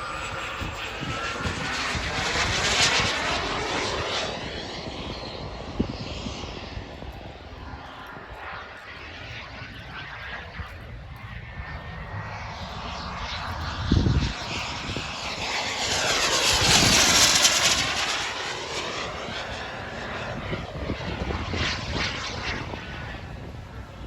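Turbine-powered RC jet flying, its engine noise swelling and fading as it passes twice, the second pass the loudest. A brief low thump sounds a little past halfway.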